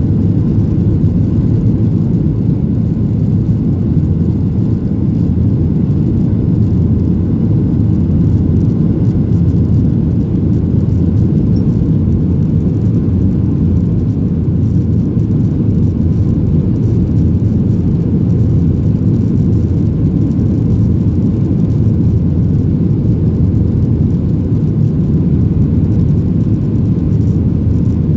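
Boeing 737-700's CFM56-7B turbofan engines and airflow heard from inside the cabin during takeoff: a loud, steady, deep rumble.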